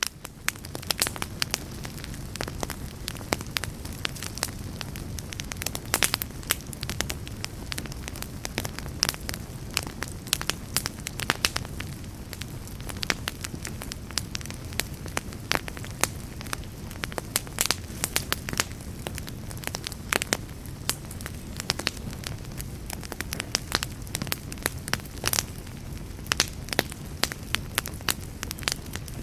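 Wood fire crackling, with sharp snaps and pops at irregular moments over a steady low rumble.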